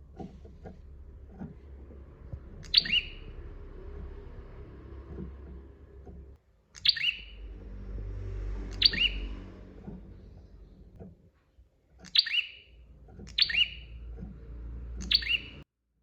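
Prinia (prenjak) calling: six loud, sharp chirps at irregular intervals, each a quick falling note, over a low background rumble.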